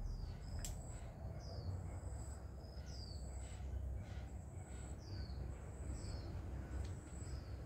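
Small birds calling outdoors: short, high chirps that fall in pitch, every second or two, over a repeated high, even-pitched trill. A low rumble runs underneath, and a single sharp click sounds just under a second in.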